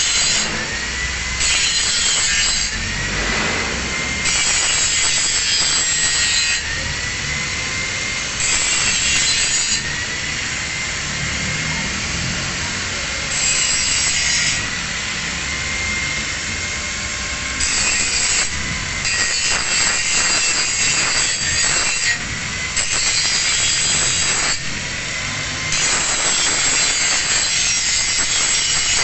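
Angle grinder running with a steady high whine, its disc pressed against steel in repeated strokes of one to two seconds, each a harsh, hissing grind, while bevelling a plate edge.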